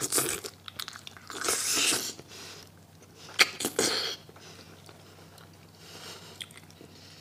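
Close-miked biting and chewing of soft, glutinous spicy braised chicken feet, with a few sharp clicks. It is loudest in the first four seconds, then softer chewing follows.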